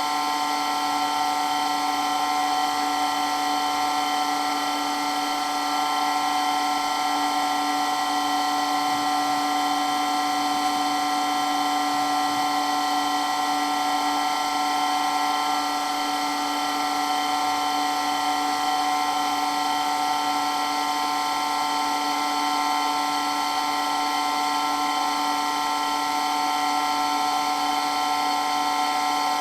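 Water pump running continuously with a loud, steady, high whine made of several unchanging tones.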